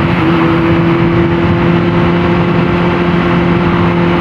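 Honda CBR600RR inline-four engine running at a steady pitch as the motorcycle cruises, under a steady rush of wind noise.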